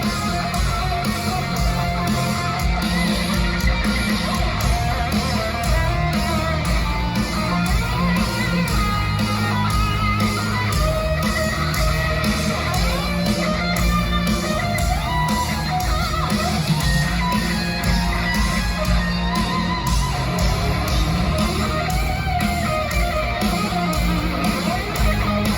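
Heavy metal band playing live: distorted electric guitars, bass guitar and drums, loud and continuous.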